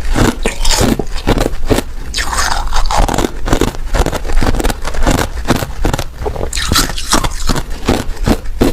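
Ice being bitten and chewed close to the microphone: a dense, continuous run of sharp crunches and crackles with no pauses.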